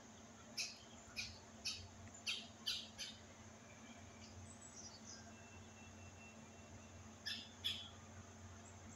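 A bird giving short, harsh calls: six in quick succession in the first three seconds, then two more near the end.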